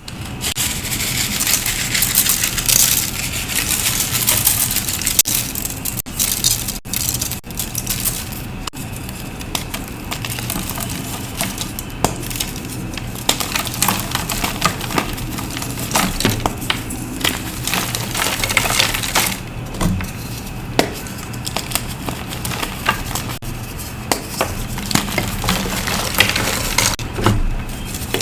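Reformed blocks of gym chalk being crushed: a steady stream of dry crunching and crumbling, full of small sharp cracks.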